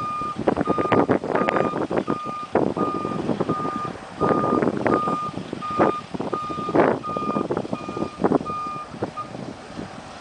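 A hi-rail truck's backup alarm beeping evenly, about one and a half beeps a second, over irregular clanks and rattles; the beeping stops near the end.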